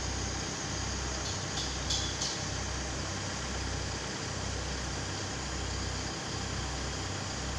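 Truck engine running steadily while the truck's manlift is being tested, a low throbbing hum with a few brief high-pitched squeaks or clicks about two seconds in.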